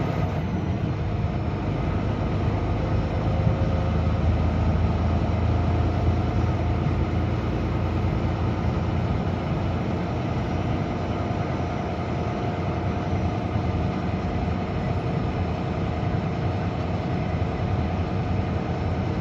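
Semi truck's engine and road noise heard from inside the cab while driving: a steady low rumble.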